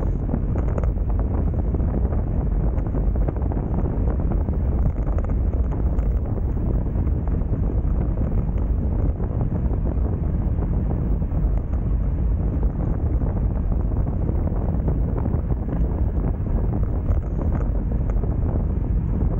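Steady wind rushing over a bike-mounted action camera's microphone while riding at race speed.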